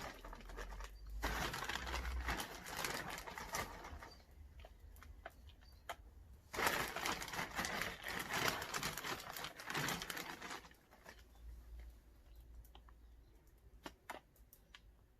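Compost being scooped and sprinkled into a plant pot to cover seeds: crumbly rustling and pattering in two spells, the second starting about six and a half seconds in, then a few light clicks.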